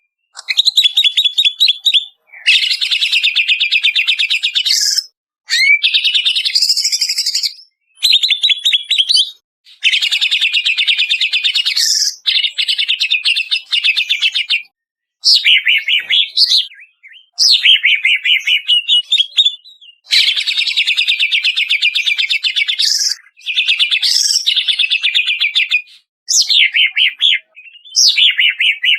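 Greater green leafbird (cucak ijo) singing in loud phrases of fast, rattling trills mixed with sweeping whistles, each phrase a couple of seconds long with brief pauses between them.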